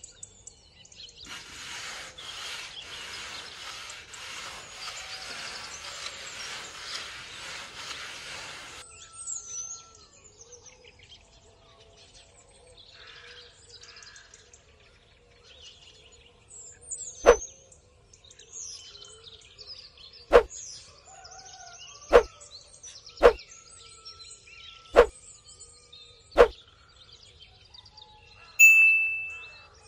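Bird chirps, with a steady hiss for the first eight seconds or so. In the second half come six sharp knocks a second or two apart, and near the end a short ringing ding.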